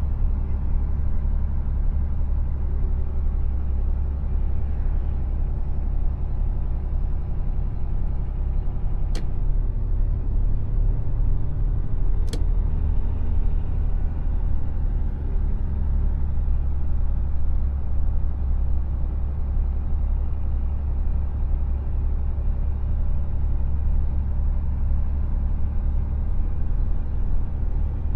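Mercedes Actros truck's diesel engine and road noise, a steady low rumble while driving, with two sharp clicks about 9 and 12 seconds in.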